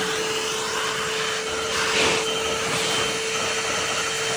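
Bissell Pet Hair Eraser cordless hand vacuum running, its motor giving a steady whine over a rush of air, briefly louder about halfway through.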